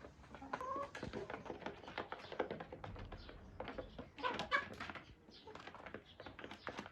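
Free-ranging local chickens feeding, a patter of quick pecking taps with a few short clucks among them.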